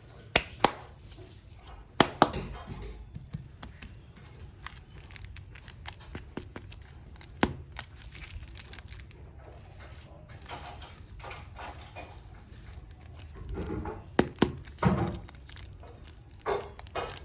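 Super clay packaging being unboxed by hand: plastic wrapping crinkling and tearing, with a few sharp clicks from the containers. Louder rustling and soft thunks come near the end.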